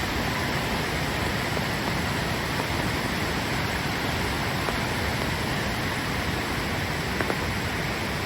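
Floodwater of a swollen creek rushing steadily, a continuous heavy noise of fast-moving water.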